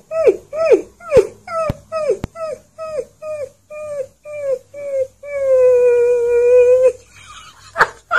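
Alaskan Malamute puppy howling: a string of about fourteen short yowls that fall in pitch, about three a second, then one long steady howl.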